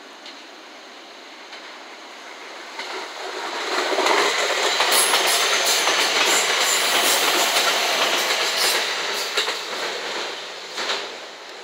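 JR West 227 series four-car electric train passing close by. Its running noise builds from about three seconds in and stays loud for about five seconds, with a quick run of wheel clicks over the rail joints. It then fades away near the end.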